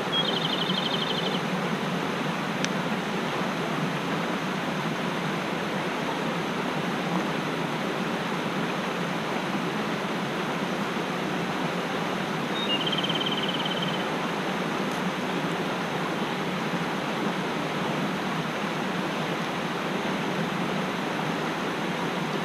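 Mountain stream rushing steadily over rocks. A small bird gives a short, high trill twice, right at the start and again about halfway through.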